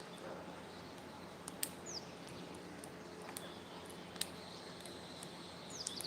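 Faint high bird chirps, one short falling chirp about two seconds in and a quick cluster near the end, over a low steady background hum with scattered light clicks.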